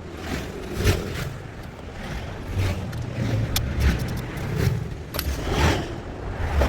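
Metal hand tools clinking, knocking and scraping on engine parts while an alternator is being unbolted, with a low rumble underneath.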